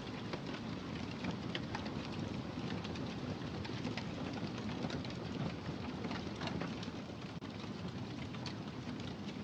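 Wood fire in a fireplace crackling, with many small irregular pops and snaps over a steady low rumble of burning.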